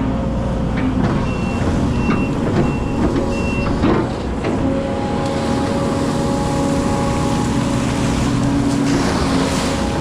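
Hydraulic excavator running under load while clearing debris, its engine holding a steady note. A high warning alarm beeps four times, evenly spaced, a little over a second in, and there are a few knocks around the middle.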